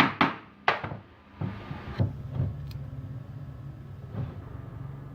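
A quick run of sharp knocks and taps in the first second, then a few single knocks spaced out over the next few seconds, over a faint steady low hum.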